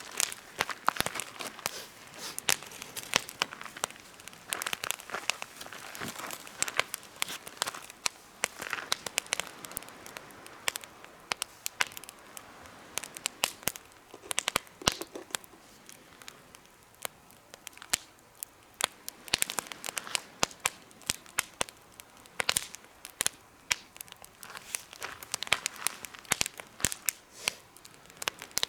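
Campfire in a homemade fire stand, crackling with many irregular sharp pops and snaps over a soft hiss.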